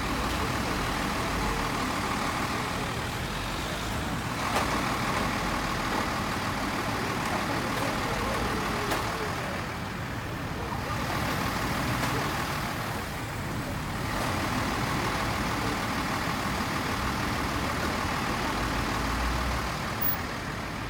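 Road traffic: vehicle engines and tyres running past in a steady wash of noise that eases briefly twice mid-way.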